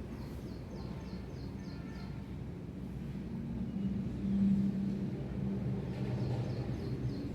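Outdoor ambience: a steady low rumble like distant traffic, swelling a little midway. Over it come two quick runs of high, falling chirps, about four a second, one at the start and one near the end.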